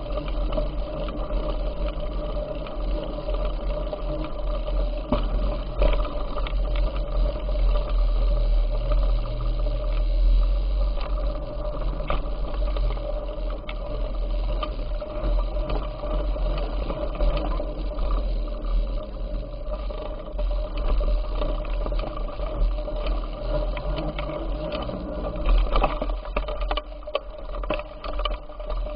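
Bicycle in motion: a steady mechanical whir from the chain and tyres over a deep, continuous rumble.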